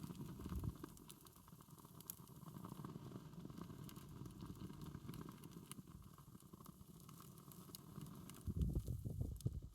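Wood fire burning, with scattered crackles and pops over a low rumble of flame; the rumble swells louder about a second before the end.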